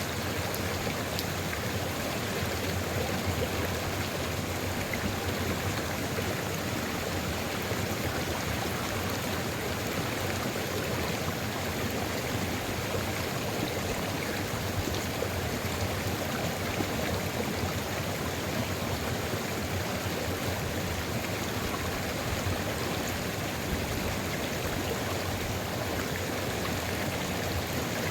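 Sulfur river running steadily: an even rush of flowing water with no separate splashes or breaks.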